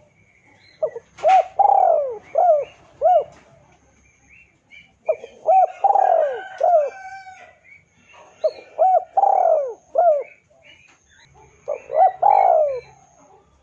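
Spotted dove (tekukur) cooing: four phrases, each of four or five short arched coos, a few seconds apart. Small birds chirp faintly behind.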